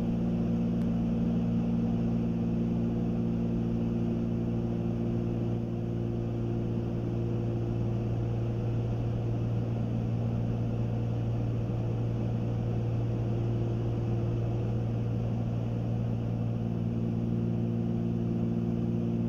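Cabin drone of a Cessna 310Q twin-engine piston airplane in cruise: both engines and propellers running steadily, a low hum with several steady tones under an even rush of noise.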